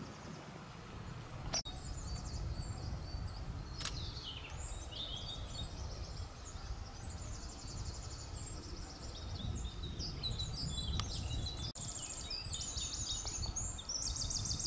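Small songbirds singing in rapid trills and chirps, more of them toward the end, over a steady low rumble. A few sharp clicks break in, around two seconds in and again near eleven seconds.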